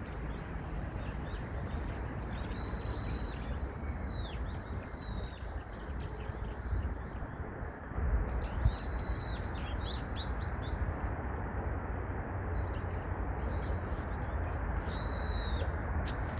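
A bird giving loud, harsh calls in short groups: two or three arched notes together, a pause, then more, with a few short clicking notes between. A steady rushing background noise sits under the calls.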